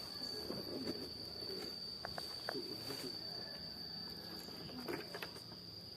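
Cricket singing a continuous, high-pitched trill on one steady pitch.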